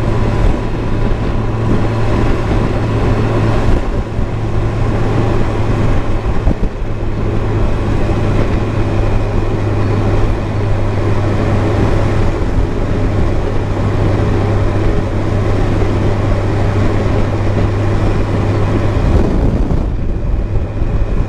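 Motorcycle engine running at a steady highway cruise, with wind rush over the helmet-mounted camera; the engine hum wavers briefly about four to six seconds in.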